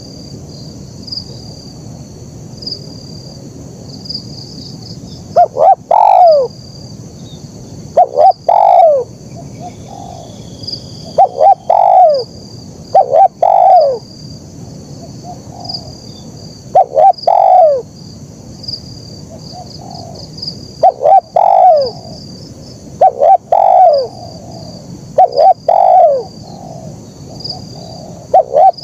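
Spotted dove (terkukur) cooing: after a few quiet seconds, about nine loud coo phrases, each a couple of short notes ending in a longer falling coo, repeated every two to three seconds.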